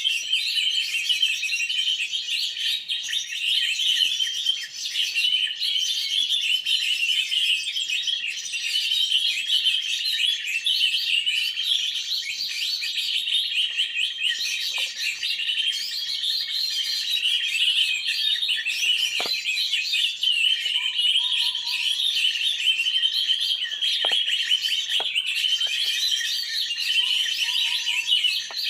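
Many small birds chirping and twittering densely and without pause, with a few faint clicks in the later part.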